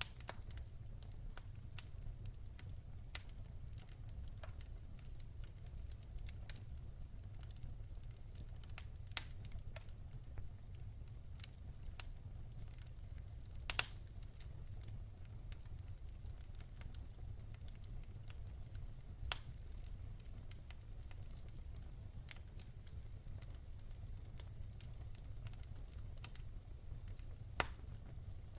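Wood campfire burning with a steady low rumble and irregular sharp crackles and pops, a few louder pops standing out.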